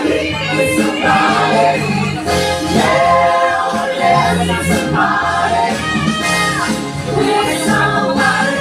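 Live stage show music: a group of voices singing together over a band accompaniment, with held sung notes.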